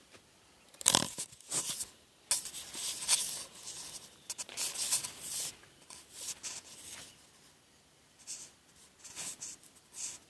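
Irregular bursts of rustling and crunching, loudest about a second in, with quieter spells around the middle.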